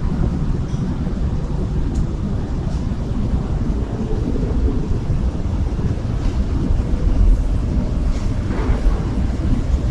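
Steady low rumble of outdoor city street ambience, with no clear single event standing out.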